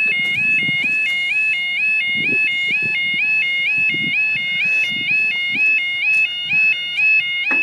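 Level crossing warning alarm sounding continuously: an electronic two-tone alarm that alternates between two high pitches about three times a second.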